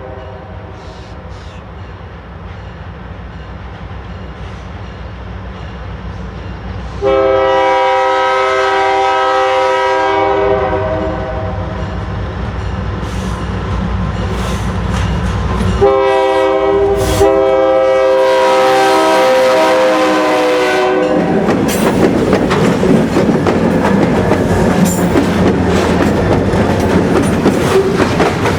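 Diesel freight locomotive approaching with a low engine rumble, its air horn sounding two long blasts for the grade crossing, the first about seven seconds in and the second about sixteen seconds in. From about twenty-one seconds the locomotive passes close and the freight cars roll by, a loud rumble with rapid clicking and clatter of wheels over the rail joints.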